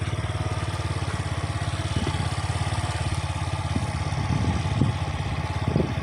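A vehicle engine running steadily at low speed on a slow drive, its firing pulse even throughout, with a few short clunks from about two seconds in.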